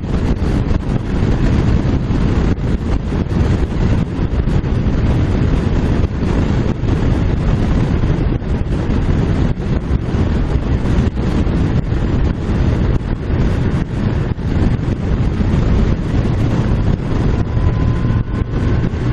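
Wind buffeting the microphone of a motorcycle rider's camera at riding speed, a dense steady rush with road and engine noise underneath. A faint, slightly rising whine comes in near the end.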